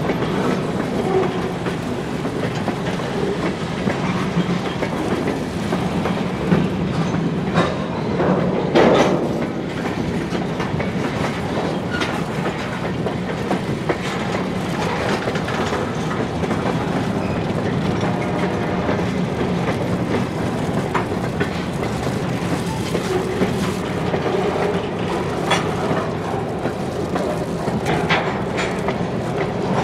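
Short-line freight train rolling by, its cars' wheels clicking over the rail joints in a steady rumble, with a few sharper clanks, the loudest about nine seconds in.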